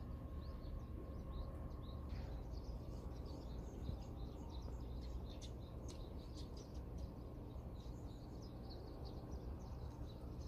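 Small birds chirping and twittering throughout, many short quick calls, over a steady low rumble.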